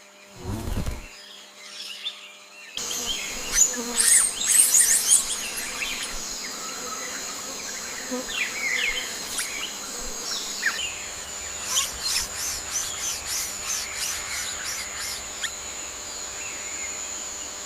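Forest ambience: a steady high insect buzz sets in about three seconds in, with many quick bird chirps and whistles over it. From about eleven seconds a fast run of very high ticking pulses joins in, and a short low thump comes in the first second.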